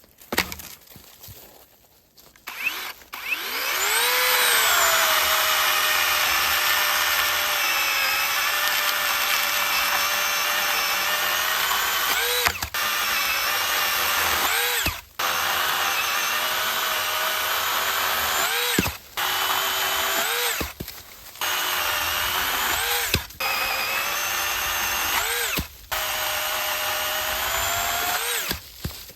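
Cordless battery-powered saw running with a steady electric motor whine that sags a little in pitch under load while cutting firewood. In the second half the trigger is released and squeezed again about every two or three seconds, the motor winding down and back up each time.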